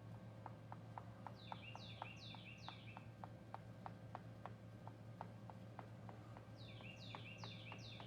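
A songbird singing twice, each song a run of four quick repeated two-part notes, a downward slur followed by a lower note. Faint ticking and a steady low hum run underneath.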